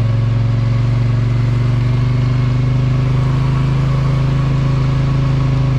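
Polaris Sportsman 850 ATV's twin-cylinder engine running at a steady speed, a constant low hum with no revving.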